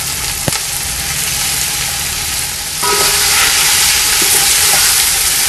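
Marinated chicken sizzling in hot oil as it goes into frying onion and tomato masala in an aluminium pot, with a wooden spoon stirring through it. A light knock about half a second in, and the sizzle grows louder and brighter a little under three seconds in.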